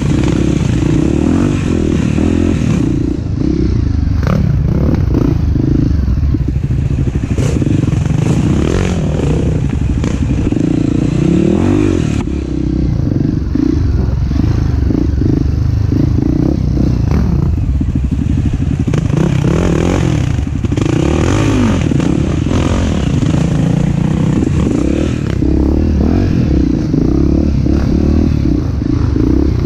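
Off-road trail motorcycle engine running under changing throttle, revving up and down, with scattered knocks and clatter from the bike over rough ground.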